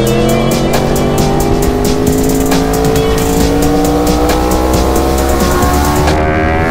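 Yamaha R1 crossplane inline-four engine on an Austin Racing exhaust pulling under load, its revs climbing slowly and steadily for several seconds.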